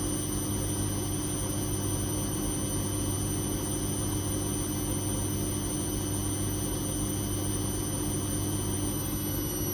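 Whirlpool Indiana 1400 washing machine spinning at speed, its motor and drum running steadily with a high whine over a low hum.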